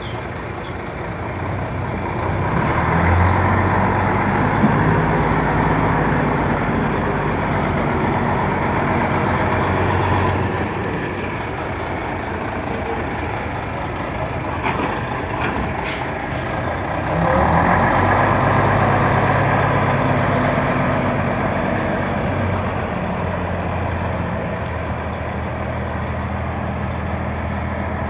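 Scania truck's diesel engine running while it is maneuvered, pulling harder and louder from about 2 s in and again from about 17 s in. There is a short sharp sound about 16 s in.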